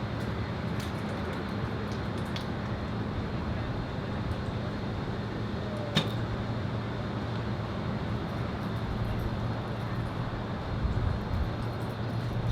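Steady wind noise buffeting the microphone over a low background hum, with one sharp snap about halfway through.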